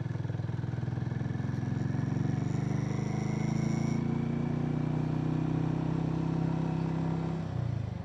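Harley-Davidson X440's single-cylinder engine running steadily while riding, its pitch rising slightly in the first few seconds, then easing off near the end.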